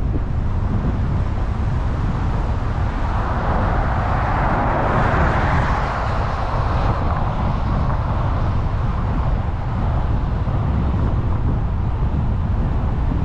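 Steady low road rumble and wind noise of a car being driven, picked up by a dash cam. A rushing noise swells and fades over a few seconds in the middle.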